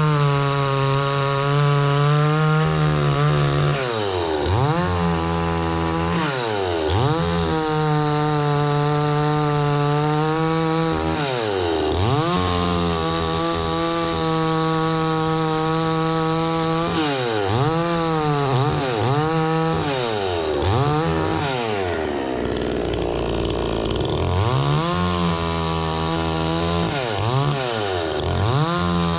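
Two-stroke petrol saw running at high revs while cutting wood. Its engine pitch dips sharply and recovers again and again as the cut loads it, several dips in quick succession later on.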